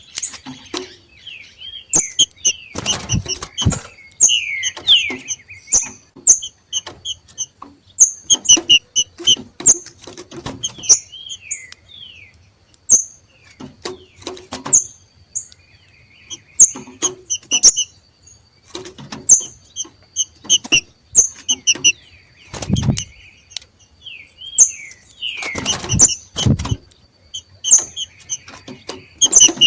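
Green-winged saltators (trinca-ferro) giving the macheado, rapid repeated short high chips and sliding notes, the call of birds coming into breeding condition. Several loud thumps break in, about three seconds in and twice near the end.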